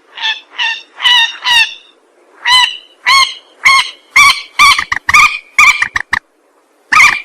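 Mandar (a rail) calling: a run of short, harsh, honking notes that come faster and faster, then a brief pause near the end before the calling starts again.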